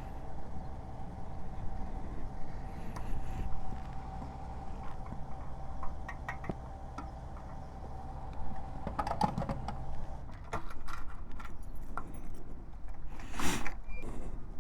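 Suzuki GSR 750 inline-four engine with an Ixrace Z7 aftermarket exhaust running at low revs, a steady low rumble with a faint whine that stops about ten seconds in. Scattered clicks and rattles follow, and a short loud burst of noise comes near the end.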